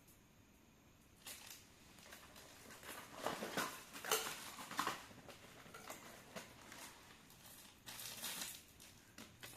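Packaging being handled while a hanging lamp is unboxed: irregular rustling and crinkling with a few small clicks, starting about a second in.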